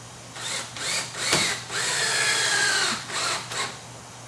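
A power drill drives a panel mate wall anchor in, in a few short spurts and then one longer run of about a second. Its whine rises and falls as it goes.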